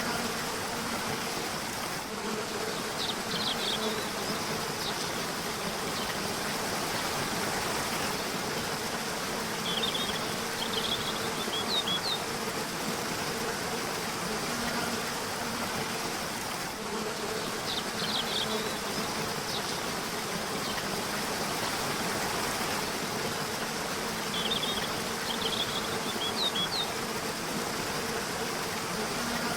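River water rushing steadily, with short bouts of high bird chirps about every seven seconds and a low steady buzz underneath.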